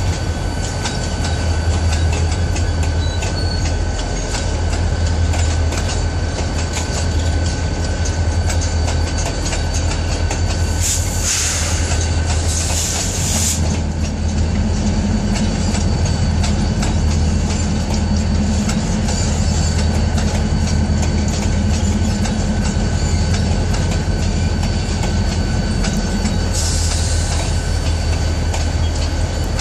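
Freight train of hopper cars and boxcars rolling past: a steady low rumble of wheels on rail. Brief high hissing squeals come about 11 and 13 seconds in and again near the end.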